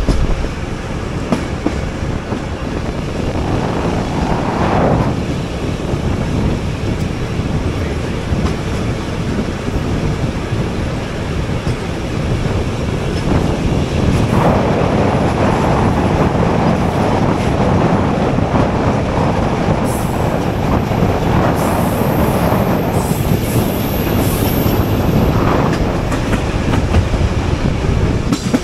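Passenger train running along the rails: a steady rumble and clatter from the wheels that swells and eases several times. Past the middle a high, thin wheel squeal runs for several seconds.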